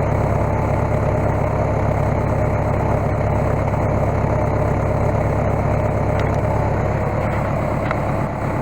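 Case skid steer engine running steadily at idle.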